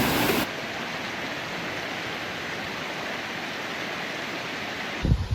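Rushing water of a mountain stream crossing, loud at first, then cut off about half a second in to a quieter, steady rush of water. A short low thump comes near the end.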